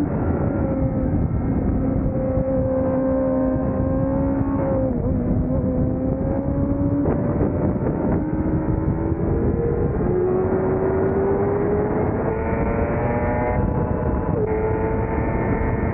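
A 600cc racing motorcycle's engine running hard on track. Its pitch sags, dips twice in the first half, then climbs steadily and steps up near the end, over a constant rush of wind noise.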